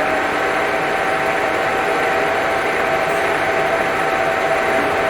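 Surfacing machine running steadily as it machines the gasket face of a Kia G4KD cylinder head flat: a steady whine over an even hiss.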